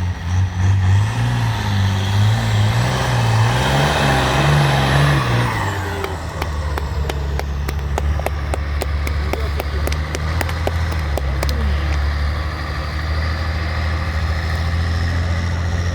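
Trial truck's engine working with rising and falling revs for about five seconds, then settling to a steady run. A quick series of sharp clicks comes in the middle of that steady stretch.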